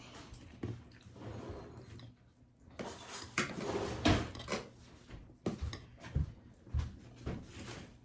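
Household clatter of a kitchen drawer being opened and shut and cutlery and dishes being handled, as a series of knocks and clicks with a longer rattle about three seconds in.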